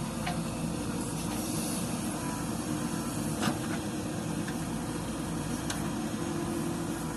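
Diesel engine of a JCB 3DX backhoe loader running steadily, with a few sharp knocks, the loudest about halfway through.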